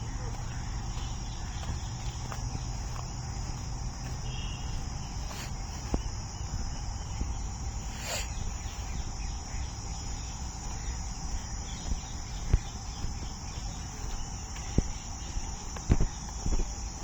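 A steady, high-pitched insect chorus over a low rumble, with scattered sharp clicks and knocks, several of them near the end.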